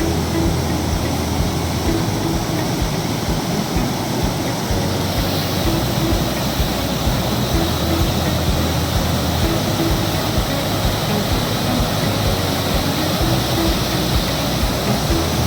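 Water pouring over a waterfall, a loud, steady rushing.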